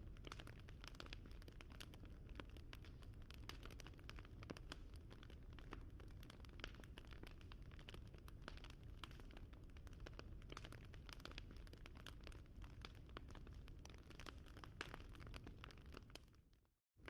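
Wood fire crackling faintly: a dense, irregular scatter of small pops and snaps over a low steady rumble. Near the end it fades out to silence for a moment, then comes back.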